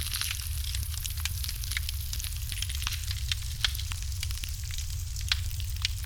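Wood fire in a fireplace crackling steadily, with dense small pops and a few sharper ones about halfway through and near the end, over a steady low rumble.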